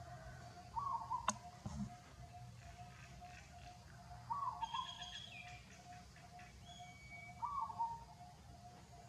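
Birds calling: a monotonous note repeated about twice a second, a short call with a falling tail about every three seconds, and a few higher chirps around the middle. A single sharp click and a low thump come just over a second in.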